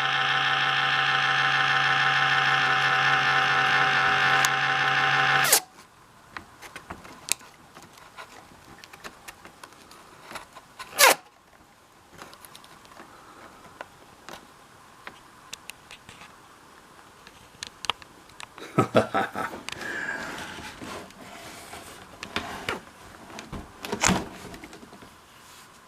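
Laptop cooling fan making a loud, steady buzzing drone, the annoying fan noise, which cuts off suddenly about five and a half seconds in. After that only faint clicks and rustling of handling are heard.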